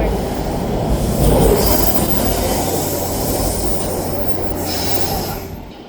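TTC Line 2 subway train pulling out of the station: a loud low rumble, with the wheels squealing in a high whine partway through, dying away near the end as the train leaves.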